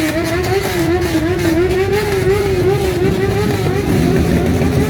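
Motorcycles riding past in a parade, engines running, with a wavering tone that rises and falls about three times a second above the engine noise and fades out near the end.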